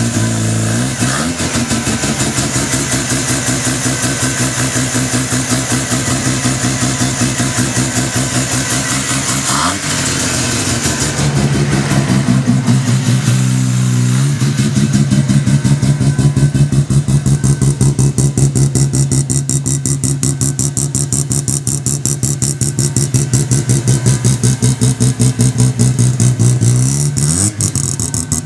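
Car engine idling just after a cold start, its idle speed wandering a few times, then settling a little higher and louder about halfway through.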